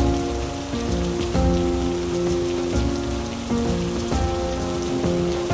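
Steady heavy rain, with slow music underneath: held notes that move to a new pitch about every second.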